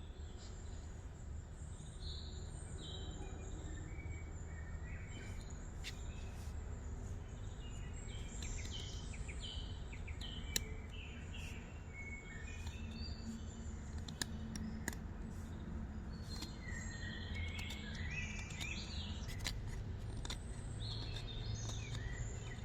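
Small birds chirping and calling on and off over a steady low outdoor rumble, with a few sharp clicks scattered through.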